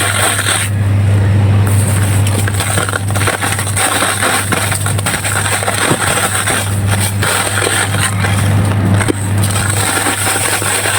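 Dry red sand shapes being crumbled by hand, a dense, continuous crunching and crackling of many small grains and pieces breaking apart, over a steady low hum.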